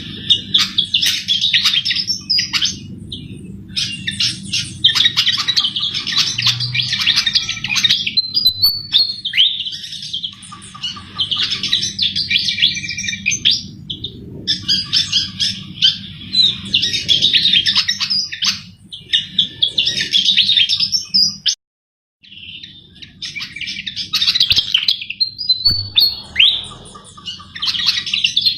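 A Sikatan jawa flycatcher singing in lively, repeated bursts of rapid high twittering and chirps, each a second or two long with short pauses between them. The sound cuts out briefly past the middle. A steady low hum runs underneath.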